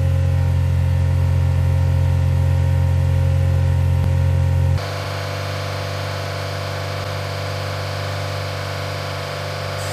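Four-cylinder petrol car engine running steadily at a held fast idle of about 2000 rpm while steam is drawn into its intake to decarbonize it. The first half is a strong, deep, steady exhaust drone at the tailpipe. About halfway through it changes suddenly to the engine running from the engine bay, quieter and with more hiss.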